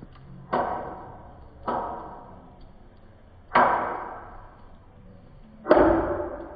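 Four heavy thuds at uneven intervals, each ringing out over about a second, the last the loudest.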